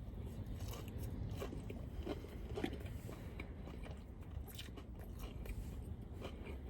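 A person chewing and biting fried fast food close to the microphone, with small crunches and mouth clicks scattered through, over a low steady hum.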